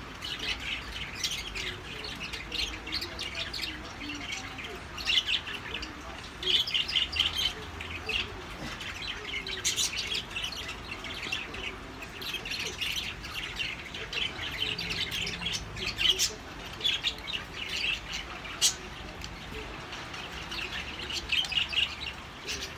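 Small birds chirping busily and repeatedly, with a few sharp clicks or taps in between.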